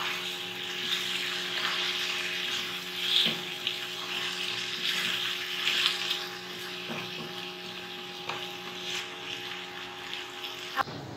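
Chicken masala sizzling in a non-stick wok as it is stirred with a wooden spatula, with a few scrapes and taps of the spatula, over a steady mechanical hum. The hum cuts off suddenly with a click near the end.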